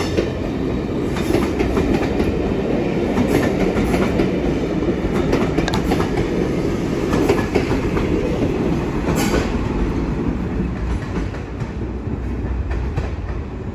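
Class 201 'Hastings' diesel multiple unit coaches running past, wheels clacking over rail joints over a steady rumble. The sound fades near the end as the train moves away.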